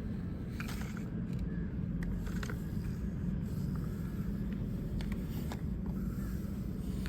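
A small motor running with a low, steady hum, with faint scattered clicks and light scraping over it.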